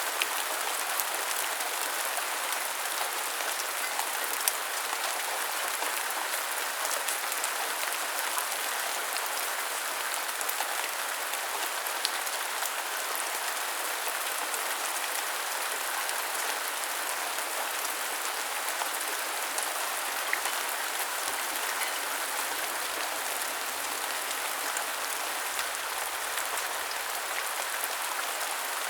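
Steady rain falling: a dense, even hiss with many scattered sharp ticks of individual drops.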